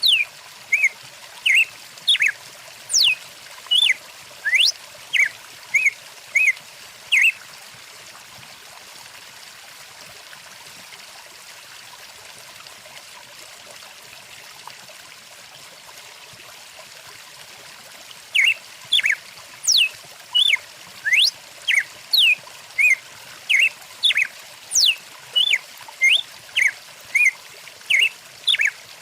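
Songbirds calling in quick, sharp chirps and sweeping whistles over the steady rush of a flowing stream. The birds stop for about ten seconds in the middle, leaving only the water, then start again.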